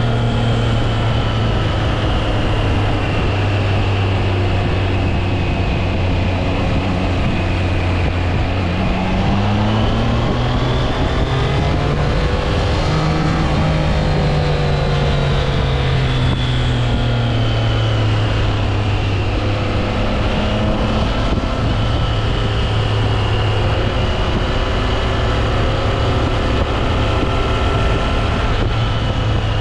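Triumph Trident 660's inline three-cylinder engine running while riding. Its pitch climbs for a few seconds about a third of the way in as it revs up, then eases back to a steady note.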